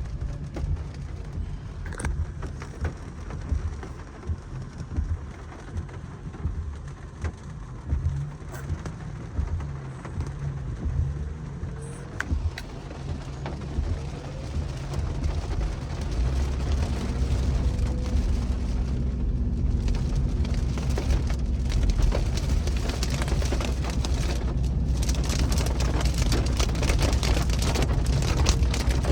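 Car driving in heavy rain, heard from inside the cabin: engine and road rumble with rain and tyre spray hissing on the car. It grows louder from about halfway through.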